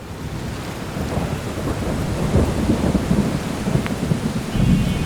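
Gusty wind buffeting the microphone: a loud, irregular low rumble that rises and falls in quick gusts.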